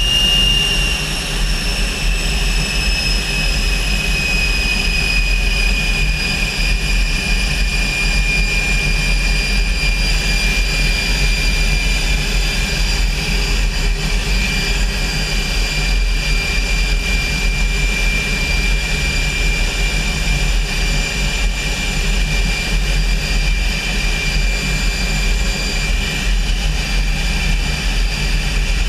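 Aero L-29 Delfin's Motorlet M-701 turbojet running during a ground run-up: a high turbine whine that falls slightly in pitch over the first few seconds and then holds steady over a constant low rumble.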